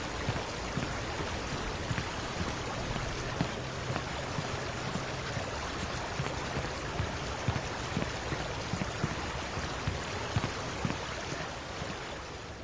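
Footsteps walking on a footbridge, about two steps a second, over a steady rushing background noise; the steps end near the close.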